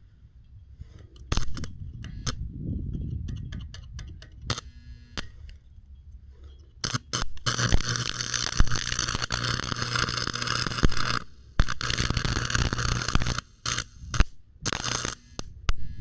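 Stick (arc) welder running a bead: a dense, steady crackle and hiss for about six seconds, preceded by scattered sharp clicks. The arc breaks off and restarts a few times near the end. The electrodes have drawn moisture, so the rods don't weld well.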